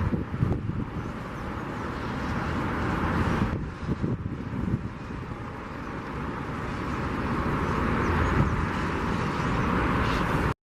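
Boeing 737-800's CFM56-7B jet engines running, a steady broad roar heard at a distance. It dips briefly about three and a half seconds in, swells again later, then cuts off suddenly near the end.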